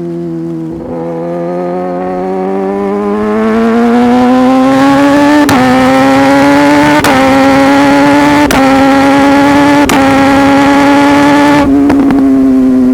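Sport motorcycle engine pulling up in pitch over the first few seconds, then holding steady at speed, with wind rushing over the microphone. Sharp ticks come about every second and a half, and the engine eases off near the end.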